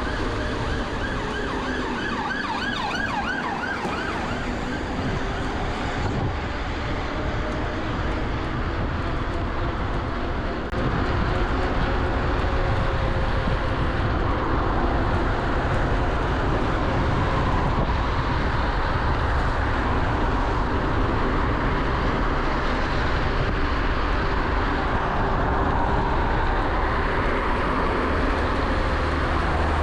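Wind buffeting the microphone and road noise from a moving electric mountain bike, with a wavering whine running underneath. The noise gets louder about eleven seconds in.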